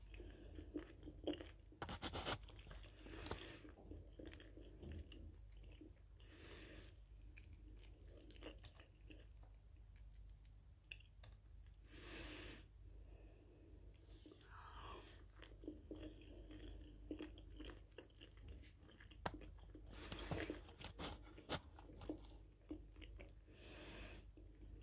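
Quiet, close-up chewing: soft wet mouth clicks and smacks scattered throughout, with a few louder noisy swells every few seconds.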